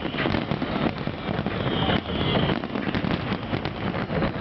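Fireworks display going off: a dense, irregular run of crackles and bangs.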